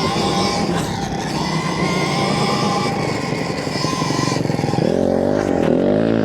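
Stark Varg electric motocross bike riding: the electric motor and drivetrain whine over tyre and wind noise. Near the end a lower whine swings up and down in pitch as the throttle changes.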